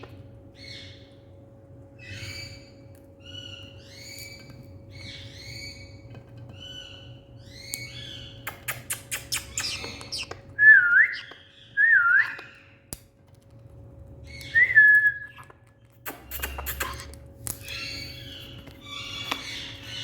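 Indian ringneck parrot calling: a string of short high chirps and squawks, a quick run of clicks about halfway, then two loud whistled notes that rise and fall, with another a little later.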